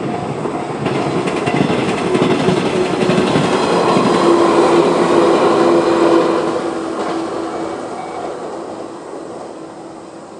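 A Shinano Railway 115-series electric train passes over a level crossing. Its wheels clatter over the rail joints, and the sound swells to a peak and then fades away. The crossing's electronic warning bell rings in short repeated tones at the start, about two a second, before the train covers it.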